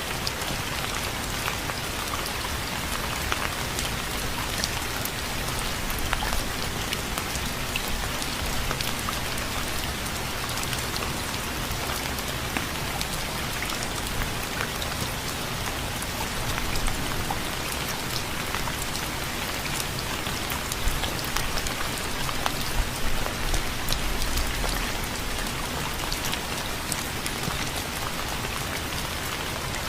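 Steady rain falling on a surface, a continuous hiss dotted with many individual drop ticks.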